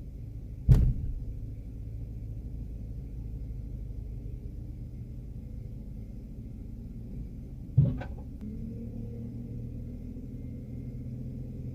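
Steady low rumble of an idling vehicle engine, broken twice by a loud, sharp bang, once about a second in and again about eight seconds in.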